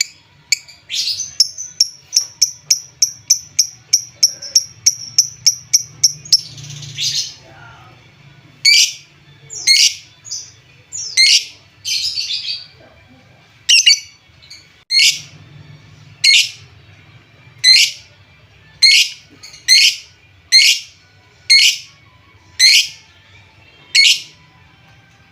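Lovebird calling: a fast run of sharp, high chips, about four a second, for roughly six seconds, then a harsher drawn-out call, then loud shrill screeches about once a second. This is a bait call meant to rouse another lovebird.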